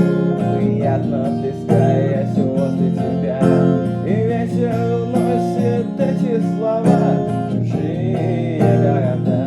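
Acoustic guitar strummed as song accompaniment in a steady rhythm, with a strong accented strum about every second and three-quarters.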